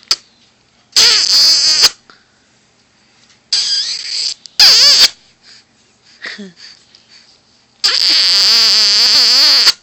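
A voice making four loud, wavering, cry-like squeals, the last and longest lasting about two seconds.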